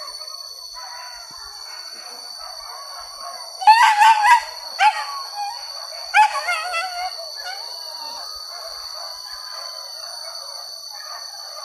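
Hunting dogs baying and yelping in a wild boar chase. Loud, high, wavering yelps come close by about four seconds in and again around six seconds, over continuous fainter baying from dogs further off.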